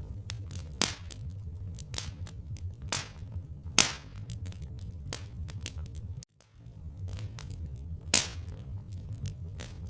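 Wood fire crackling: irregular sharp pops over a low steady rumble. The sound cuts out for a moment about six seconds in.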